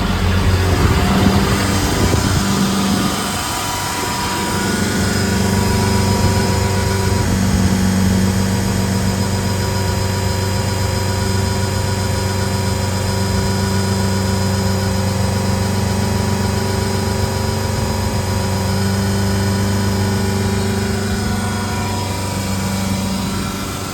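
Caterpillar C7 diesel of a Ford F750 service truck running steadily, driving the bed-mounted Stellar hydraulic air compressor. The engine note changes about three seconds in, then holds steady.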